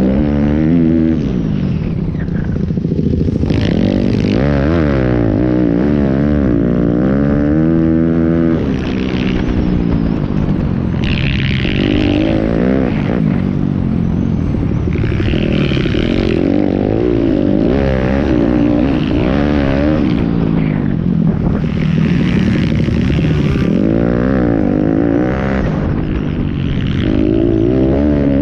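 Several pit bikes' small single-cylinder engines revving up and down, their pitch rising and falling over and over as they overlap one another.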